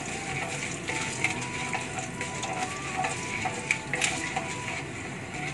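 Urad dal, chana dal, mustard and cumin seeds sizzling in oil and ghee in a nonstick wok while a wooden spatula stirs them, with scattered small clicks over the steady frying hiss.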